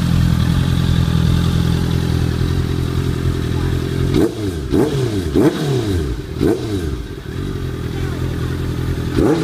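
Honda CBR650F inline-four motorcycle engine through a titanium slip-on exhaust, running steadily. About four seconds in it is blipped sharply several times in quick succession, each rev rising and falling, then settles back, with another rev beginning near the end.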